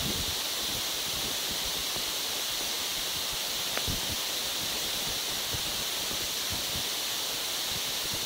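Steady rushing noise with a fluctuating low rumble, typical of wind buffeting the microphone while on the move, with a single short click about four seconds in.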